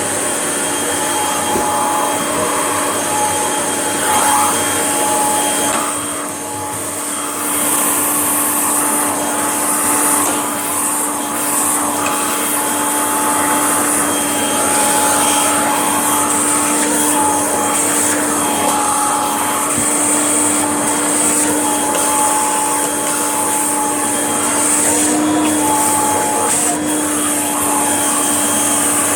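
Kirby upright vacuum cleaner running steadily, a constant motor whine over the rush of air. Short crackles come through as it picks up spilled dust and cat litter.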